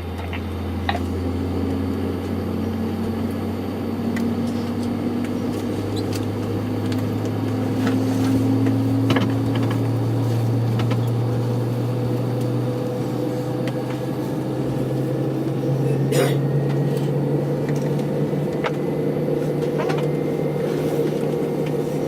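Airbus A319 cabin noise before takeoff: a steady low drone that slowly rises in pitch over about fifteen seconds, with a few faint knocks, one about sixteen seconds in.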